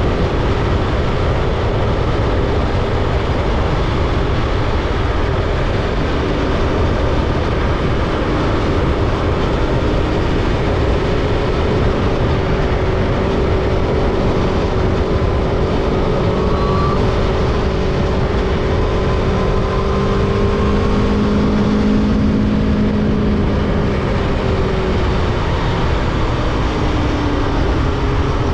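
Aprilia Tuono V4 motorcycle's V4 engine running at road speed with heavy wind rush on the microphone. Its pitch drifts with the throttle, rising around twenty seconds in and then falling away.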